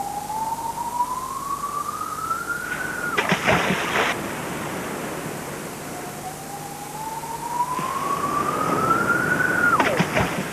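A whistling tone that rises slowly in pitch, then drops off into a short splash. It happens twice, as a sound effect for an osprey diving into the water.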